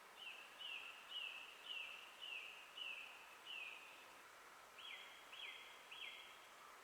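A bird singing faintly: a run of about seven short, slightly falling notes, roughly two a second, then after a brief pause three sharper notes, over a faint steady hiss.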